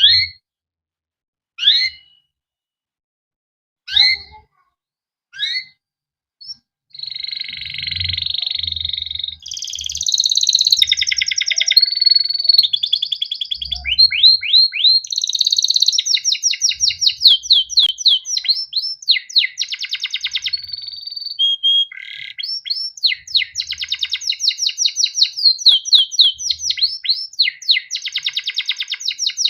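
Male domestic canary singing: four separate single chirps spaced over the first few seconds, then, from about seven seconds in, a long unbroken song of rolling trills and fast repeated notes.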